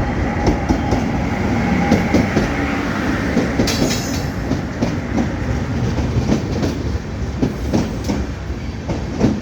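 Passenger train running on the rails, its wheels clacking over the rail joints in repeated knocks over a steady rumble. A faint high squeal sounds through the first few seconds.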